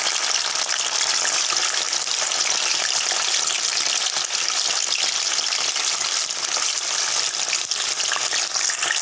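Paneer slabs deep-frying in hot oil: a steady, dense sizzle and crackle.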